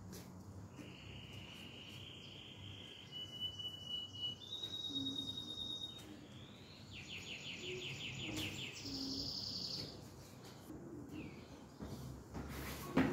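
Small birds calling in the background: a few high, drawn-out calls, then a rapid chattering trill about seven seconds in. A single sharp knock comes right at the end.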